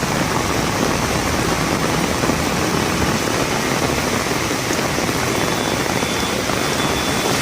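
Heavy rain falling: a loud, steady hiss with no break.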